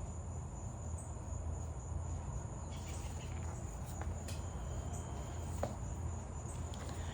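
Crickets chirping steadily in a continuous high trill over a low steady hum, with a few faint ticks.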